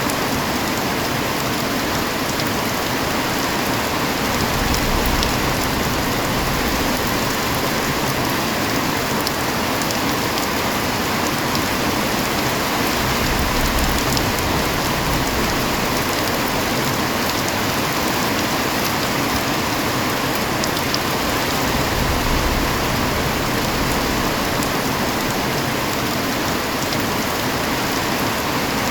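Steady heavy rain, a dense even hiss of drops with fine individual patters on a surface.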